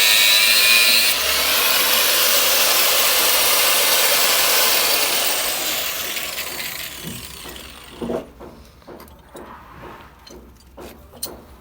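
Angle grinder with a cutting disc cutting through old galvanised iron pipe, a loud steady grinding that fades away over a few seconds in the second half, followed by a few scattered knocks and clinks.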